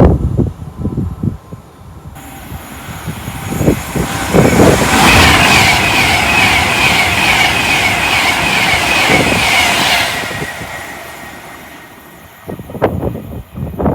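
A train passing at speed: its rush builds over a few seconds, stays loud for about five seconds with a wavering high note over it, then fades away. Wind gusts buffet the microphone at the start and again near the end.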